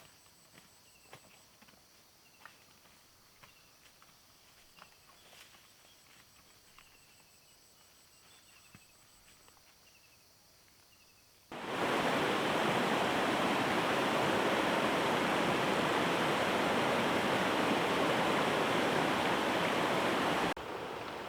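Faint ticks and short high chirps, then a loud, steady rushing of flowing river water that starts abruptly about halfway through and drops suddenly to a quieter rush near the end.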